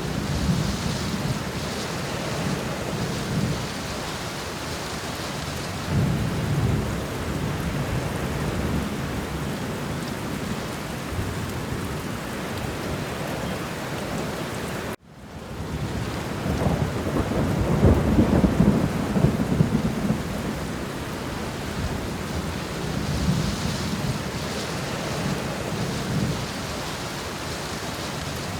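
Steady heavy rain with low rolling rumbles of thunder that swell several times, the longest and loudest about two-thirds of the way through. Around the middle the sound cuts out abruptly for a moment and fades back in.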